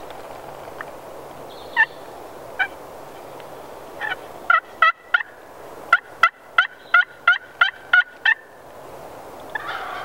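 Wild turkey calling: a lone note near two seconds in and another shortly after, then a run of about a dozen short, evenly spaced calls, about three a second.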